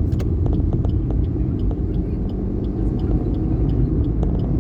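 Steady low rumble of a vehicle travelling on the road, with scattered light clicks.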